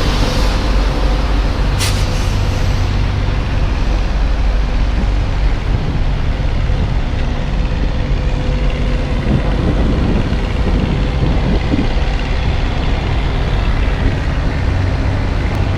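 Semi truck's diesel engine running steadily at low speed. There is a hiss of air in the first second and a single sharp knock about two seconds in.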